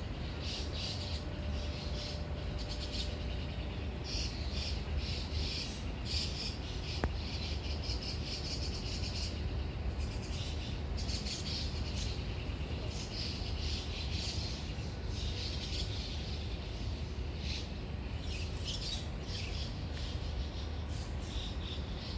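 Small birds chirping, many short high calls repeating and overlapping throughout, over a steady low rumble.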